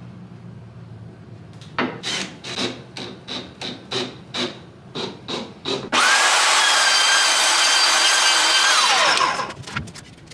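Sandpaper rubbing back and forth on wood in even strokes, about two or three a second. Then an electric sander switches on with a loud steady whine, runs for about three seconds, and winds down with a falling pitch.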